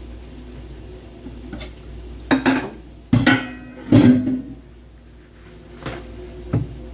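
Metal pots and pans clanking as they are handled: about five separate knocks and clangs, the loudest three in the middle, some with a brief ring.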